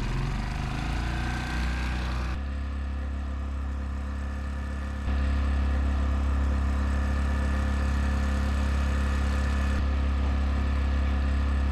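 A small sailing yacht's engine running steadily at low revs, with a deep even hum; it steps up louder about five seconds in.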